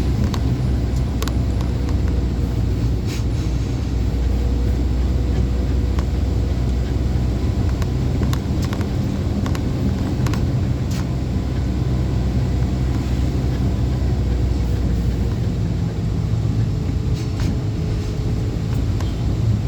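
Truck on the move: a steady low engine and road rumble, with light clicks and rattles here and there. The deepest part of the engine note drops back about fifteen seconds in.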